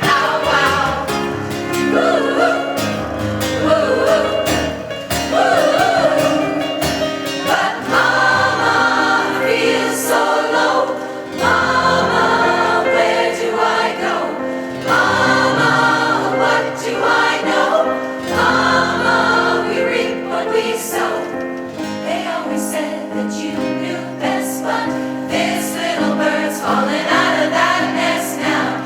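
Adult amateur choir singing a song together in several sustained voice parts.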